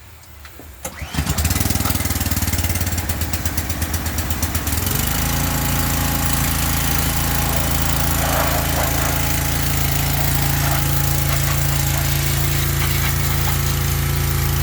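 An engine starts about a second in and runs unevenly for a few seconds. About five seconds in it settles into a steady, even run.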